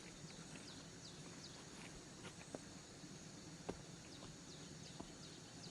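Faint outdoor ambience: short, high chirps falling in pitch repeat irregularly, with a few light clicks or taps.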